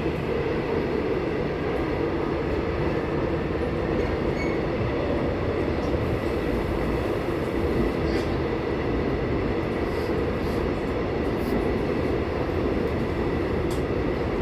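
Busan Metro Line 3 subway train running between stations, heard from inside the car: a steady rumble with a faint, high, steady whine.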